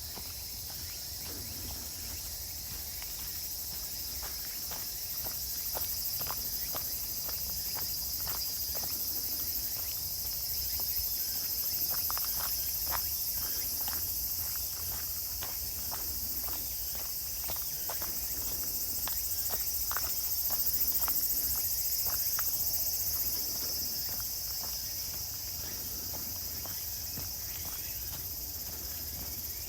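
Steady, high-pitched chorus of insects chirring, with a walker's footsteps on a woodland path falling irregularly underneath.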